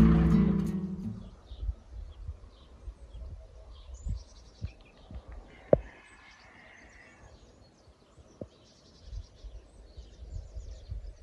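Intro music fading out, then quiet countryside ambience with small birds chirping on and off, low uneven rumbles and one sharp click about halfway through.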